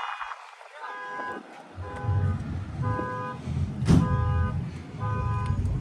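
Car horn beeping in a steady pattern, about one half-second beep a second, over the low rumble of an engine running. One sharp knock sounds near the middle.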